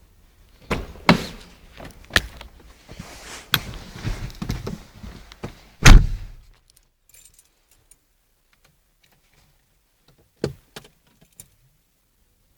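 Keys jangling with clicks and knocks, ending in a loud thump about six seconds in like a car door shutting; a few short clicks follow later.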